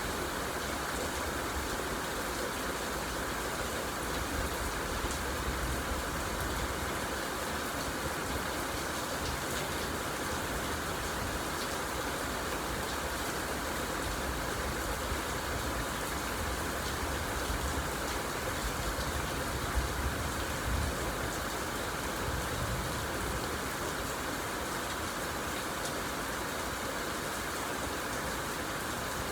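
Steady rain falling, an even hiss with a low, uneven rumble underneath.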